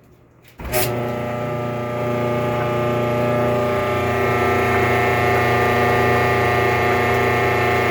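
Kenmore electric dryer starting up: a click just under a second in, then the motor and drum running with a loud, steady noise of several held tones that swells slightly about two seconds later. This horrible start-up noise lasts the first 30 seconds or so and remains even with a new motor, belt, tension pulley, rear drum bearing and drum felts; its source is unknown.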